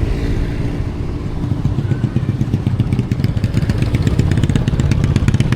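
Motorcycle engine running while riding, its firing beat becoming more distinct and louder through the second half.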